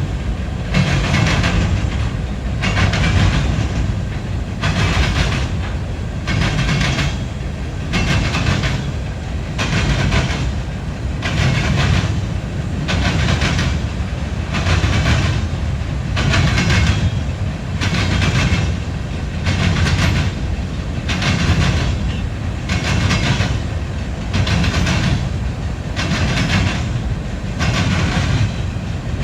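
Freight train cars rolling past, their wheels clacking over the rail joints in a steady rhythm of about one clack a second.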